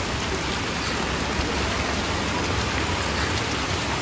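Heavy rain pouring steadily onto a flooded street, an even hiss of drops hitting standing water.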